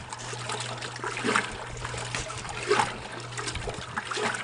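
Kenmore wringer washing machine running, water trickling and splashing in the tub over a steady low motor hum, with irregular louder splashes as it agitates and rinses the load.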